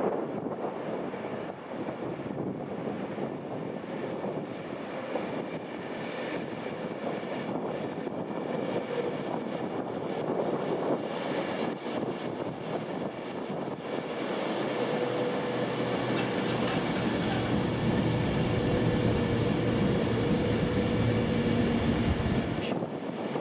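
Train running on rails with a steady rumble that grows louder about two-thirds of the way in, with a low hum, then cuts off sharply near the end.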